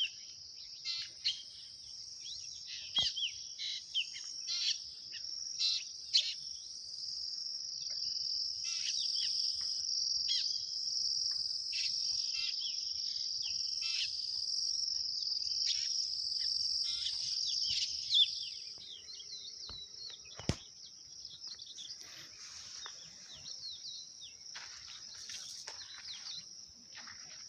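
Outdoor insect chorus: a steady high drone, with birds chirping repeatedly over it for the first two-thirds. A single sharp click about twenty seconds in.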